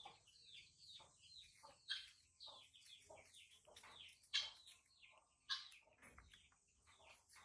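Birds chirping: a dense run of quick, high, falling chirps, with a few louder ones about 2, 4½ and 5½ seconds in.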